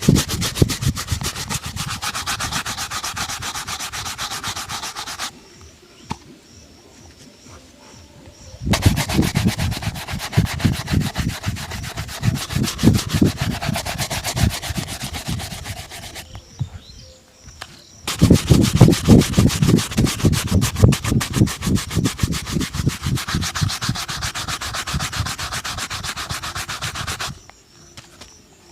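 Leather shoe being buffed during a shoe shine, with fast back-and-forth rubbing strokes. The strokes come in three long runs, with short pauses about five seconds in and again around seventeen seconds.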